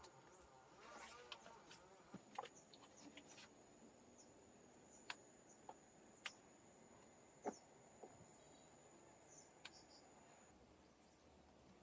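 Quiet forest ambience: a thin, steady high insect tone that stops near the end, a few faint bird chirps, and scattered sharp clicks every second or two.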